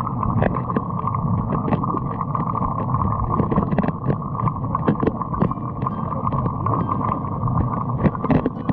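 Steady rush of a stream's moving water, muffled and dull, with many small ticks and knocks scattered through it.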